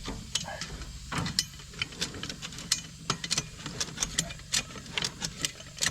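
Ratchet being worked to pull the ends of a skid-steer tire track chain together: irregular metallic clicks and clinks, two or three a second, over a steady low engine hum.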